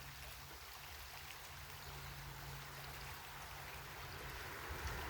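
Faint, steady rushing of a creek, with a low steady hum underneath.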